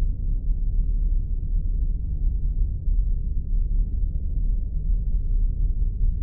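Spaceship ambience sound effect: a steady, deep rumbling drone, all low in pitch, that does not change.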